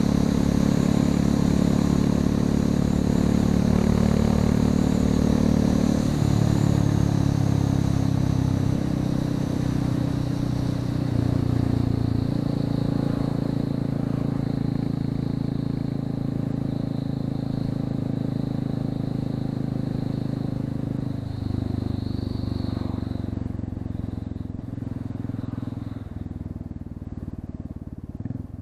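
Royal Enfield Classic 350's single-cylinder engine running with the exhaust end-can removed and the catalysts still fitted, as the bike is ridden. The engine note changes in steps a few times and grows a little quieter near the end.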